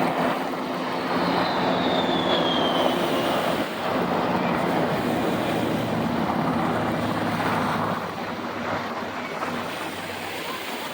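Military aircraft flying past, a loud steady engine roar with a whistle that falls in pitch near the start. It eases down after about eight seconds.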